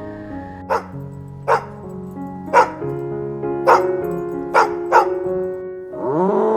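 Dog barking six short single barks over soft background music; near the end a longer animal call rises and falls in pitch for about a second.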